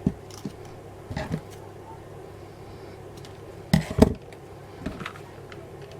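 A few light knocks and clicks of small craft items being handled on a tabletop, the loudest pair about four seconds in, over a steady low room hum.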